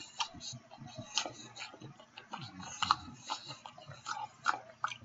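A man chewing a mouthful of ribeye steak sandwich close to the microphone, with irregular wet smacks and clicks of the mouth.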